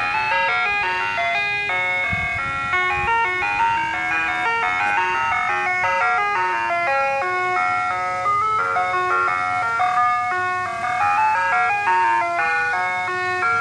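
Ice cream truck jingle: a bright electronic chime tune of quick notes playing on and on. A few faint low bumps come about two seconds in.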